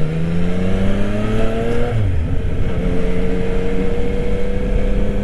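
Yamaha Tracer 900 GT's three-cylinder engine under acceleration, the revs rising, then dropping suddenly about two seconds in as it shifts up, then running steadily at a lower pitch.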